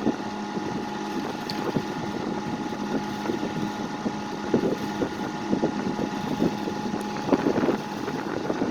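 1950s Dominion 20-inch box fan running on high: a steady motor hum with a rush of air, and small irregular rattles throughout. The rattling comes from the front grille, loose because one of its clamps is broken; the owner also suspects the bearings are going bad.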